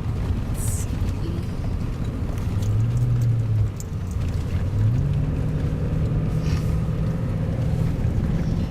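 A motor vehicle's engine running with a steady low hum. Its pitch steps up about five seconds in and then holds.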